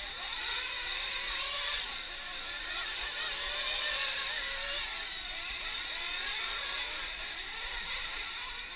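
Several nitro RC trucks' small glow-fuel engines running at high revs, a high-pitched whine from many engines overlapping, each pitch rising and falling as the drivers work the throttle.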